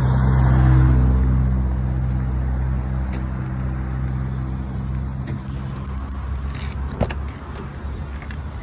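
1995 Mercury Grand Marquis's V8 idling steadily, loudest in the first second and then slowly getting quieter. A sharp click about seven seconds in as the driver's door is opened.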